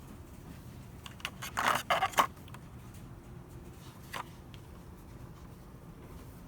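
A short burst of scraping and rustling about a second and a half in, then a single click a couple of seconds later.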